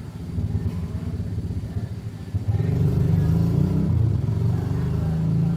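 A small engine running with a rapid low beat, picking up and getting louder about two and a half seconds in.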